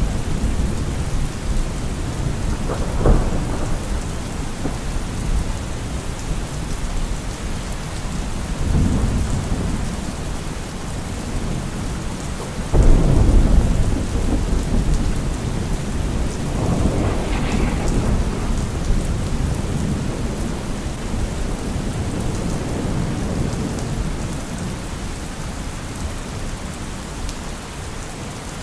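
Steady heavy rain with thunder rolling through it: a sharp crack a few seconds in, further rumbles, and the loudest thunderclap about halfway through, trailing off into a long low rumble.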